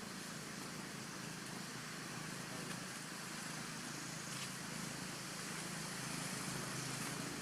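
Steady background hiss with a few faint ticks.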